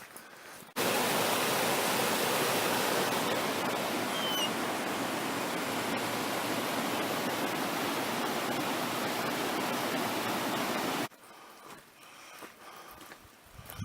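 Steady rush of fast-flowing creek water, starting and stopping abruptly, with a brief high chirp about four seconds in.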